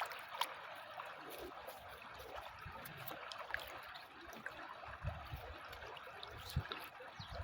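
River water flowing steadily, with a few low thumps in the second half.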